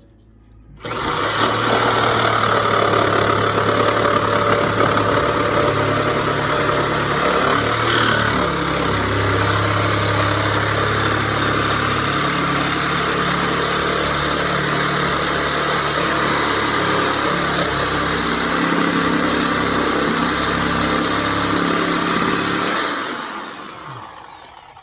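Power saw cutting through old wall framing. It starts suddenly about a second in, runs steadily with a high whine for about 22 seconds, then the motor winds down with a falling whine near the end.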